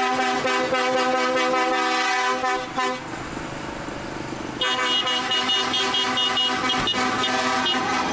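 Vehicle horns sounding in long held blasts, broken by a pause of about a second and a half near the middle when only the duller running noise of the vehicles is heard.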